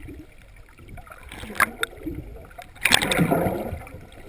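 Water sloshing and splashing against the side of a boat, with a louder splash about three seconds in and a couple of sharp knocks shortly before it.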